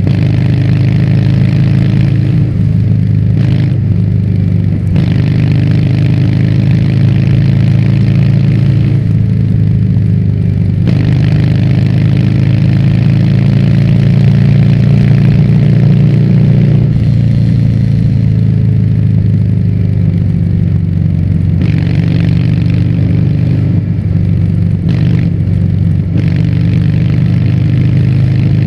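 Harley-Davidson Fat Bob's V-twin engine running under way through a Vance & Hines aftermarket exhaust, its pitch rising and falling several times with throttle and gear changes.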